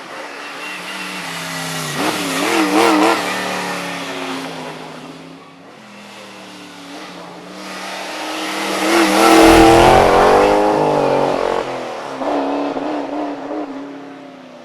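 American V8 race cars accelerating hard up a hillclimb course past the listener, in two loud passes about two and nine seconds in. The engine pitch rises and falls with throttle and gear changes.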